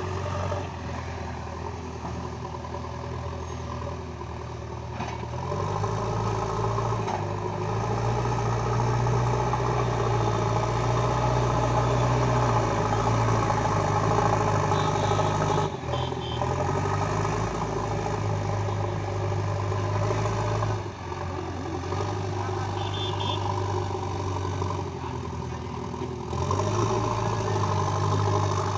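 JCB 3DX backhoe loader's diesel engine running, revving up under hydraulic load about five seconds in, easing back about two-thirds of the way through, then revving up again near the end as the machine works.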